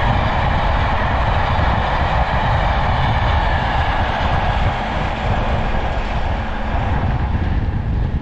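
Locomotive-hauled passenger train of crimson-and-cream coaches running past at speed: a steady rumble of wheels on rails, easing a little in the second half as the train draws away.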